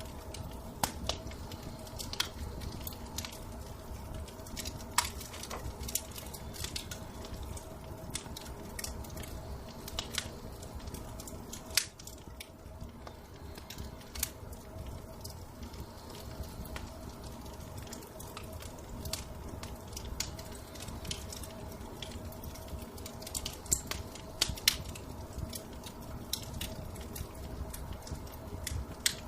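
Fire crackling in a fireplace, with irregular sharp pops over a low steady rumble and a faint steady hum.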